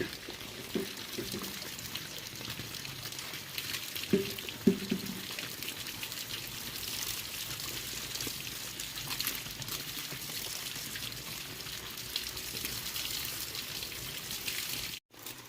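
Water pouring and trickling steadily, with a few light knocks, cutting off abruptly near the end.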